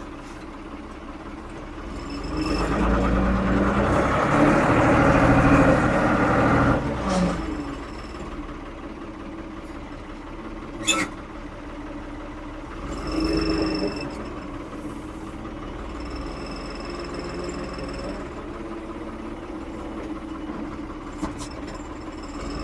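1975 Ford 550 backhoe's diesel engine running steadily while working, its sound rising under load for a few seconds near the start and again briefly around the middle. A single sharp click sounds about halfway through.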